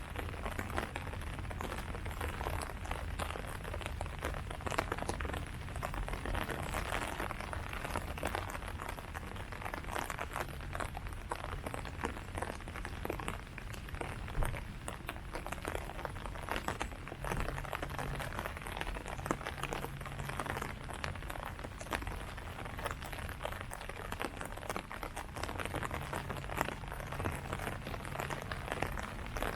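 Steady rain falling on leaves: a dense, even mass of small drop ticks, with a low rumble underneath.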